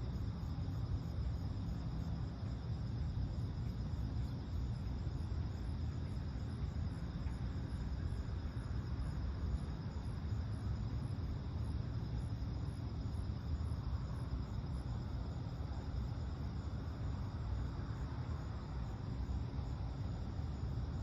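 Night insects calling steadily, with a high, evenly repeated chirp about twice a second, over a low continuous rumble.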